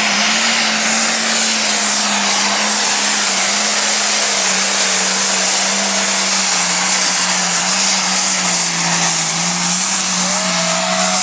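A Super Stock Open pulling tractor's engine running hard and loud under load. Its engine note sags slowly in pitch, then lifts slightly near the end, over a steady rushing roar.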